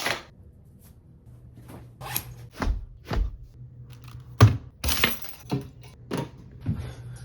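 A string of irregular knocks and thuds, about a dozen, with the sharpest one about four and a half seconds in, over a faint low hum.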